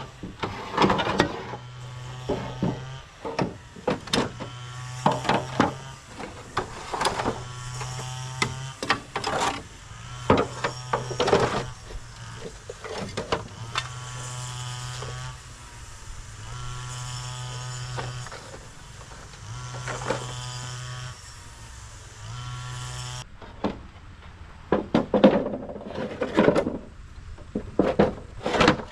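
A small electric motor running in short bursts of a second or two, about seven times, among sharp knocks and clatter. The motor stops about two thirds of the way through, leaving only the knocks.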